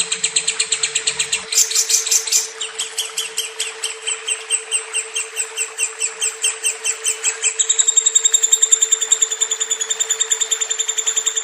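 Lovebird chirping in a long unbroken run of fast, evenly repeated high chirps, which shifts its pattern twice, once about two seconds in and again near the eight-second mark. A steady low hum runs underneath.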